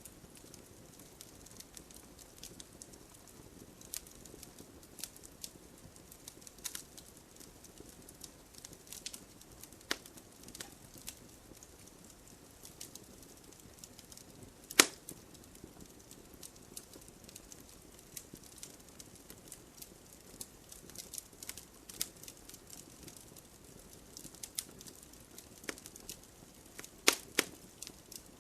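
Wood fire crackling in a fireplace: irregular sharp pops and snaps over a low steady hiss of the flames, with a louder pop about halfway through and a quick pair of pops near the end.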